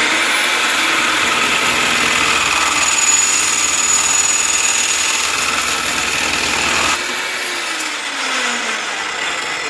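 Abrasive chop saw cutting through metal stock: a loud, steady grinding of the disc through the metal for about seven seconds. The trigger is then released, and the motor spins down with a falling whine.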